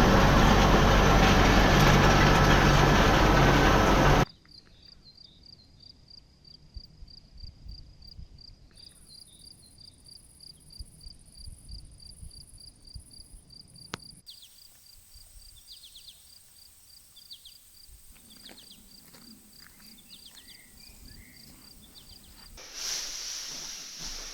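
A loud, steady mechanical noise, like a running vehicle, cuts off after about four seconds. A quiet rural background follows, with an insect chirping in a fast, regular rhythm of about four or five chirps a second and a few faint bird-like calls. Near the end a louder noise comes back in.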